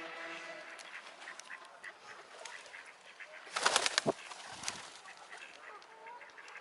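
Waterfowl calling, a pitched honking call trailing off in the first second, then a loud flurry of wing flaps about three and a half seconds in, among scattered small clicks.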